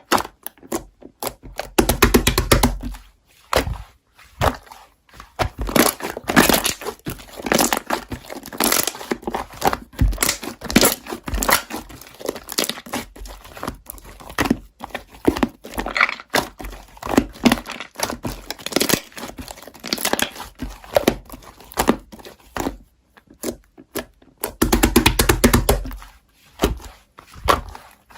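Paper and plastic packaging crinkling and tearing, with irregular taps and knocks of small items being handled, as sticker sheets and other stationery goods are unwrapped. There are heavier handling bumps about two seconds in and again near the end.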